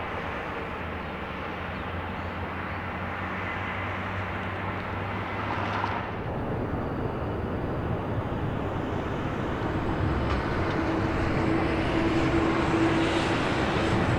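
Aircraft engine noise at an airport, a steady rushing sound growing louder as the aircraft comes closer. A steady tone joins it about ten seconds in and gets stronger toward the end.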